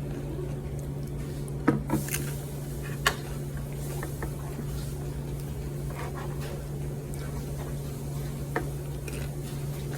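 A few sharp clicks and light knocks of tableware and food containers being handled, the loudest about two and three seconds in, over a steady low hum.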